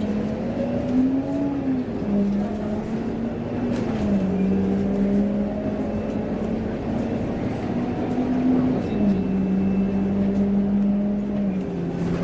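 Scania K230UB bus's five-cylinder diesel and drivetrain running under way, with road noise. A steady droning tone rises and drops back in steps several times, as the bus accelerates and changes gear.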